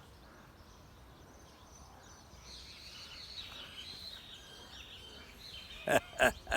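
Quiet outdoor ambience with faint bird chirps coming in about two and a half seconds in, then two loud, brief bumps near the end.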